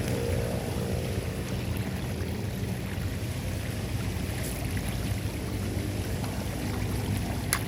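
Steady rush and churn of floodwater pouring down a drain, with a couple of sharp clicks near the end.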